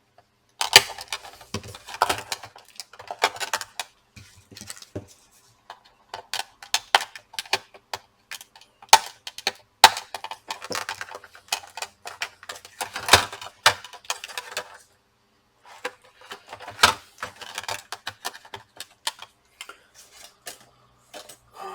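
Irregular clicks, snaps and light clatter of a plastic laptop case and its tight clips being worked open by hand and tool, with a short pause partway through.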